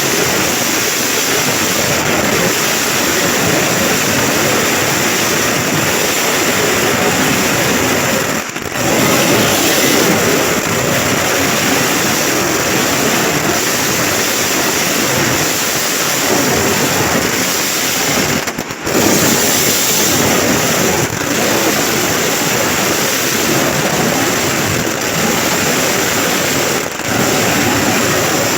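A dense barrage of firecrackers going off together, crackling into an almost unbroken roar, with two brief drops about 8 and 18 seconds in.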